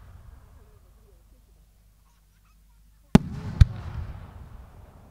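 Aerial firework shells at a display: a rumbling tail fades, then about three seconds in two sharp bangs come about half a second apart, each followed by a long rumbling tail that dies away.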